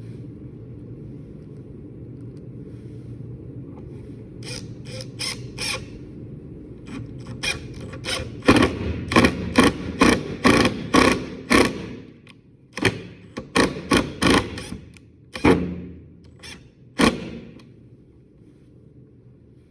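A series of sharp knocks with short ringing, in quick runs of about two to three a second, loudest between about eight and twelve seconds in. A low steady hum sits underneath and drops away about twelve seconds in.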